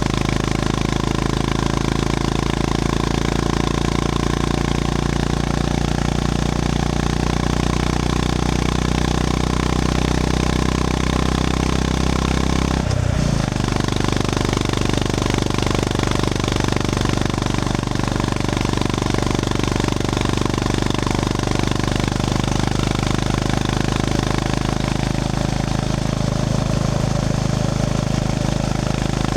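Honda GB350S air-cooled single-cylinder engine running steadily under way. Its note changes abruptly once, about halfway through.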